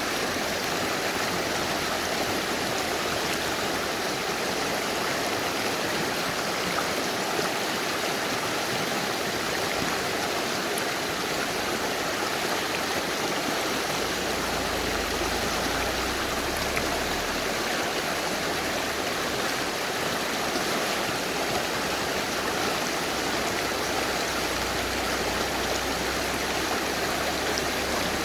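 Mountain river rushing steadily over rocks: a constant, even wash of water noise.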